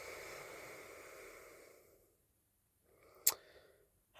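A person's long, faint breath that fades out after about two seconds, then a softer breath with one sharp mouth click in the middle.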